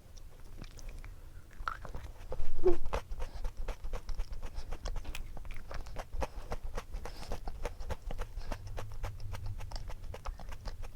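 Close-up chewing of a crunchy snack, with many small crisp clicks and crunches throughout. A short, falling, cry-like call, the loudest sound here, comes about two and a half seconds in.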